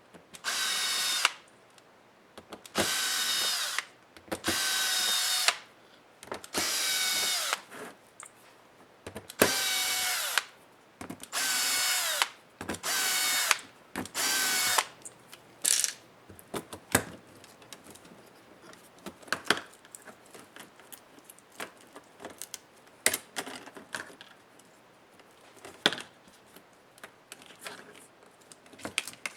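Small cordless electric screwdriver running in about eight short bursts of a second or so each, spinning down at the end of each, as screws are driven out of the laptop. In the second half come scattered clicks and knocks of small plastic and metal parts being handled.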